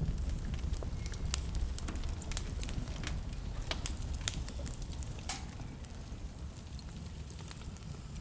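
Wood fire in a fireplace crackling, with sharp irregular pops and snaps over a steady low rumble of the burning. It gets a little quieter over the last few seconds.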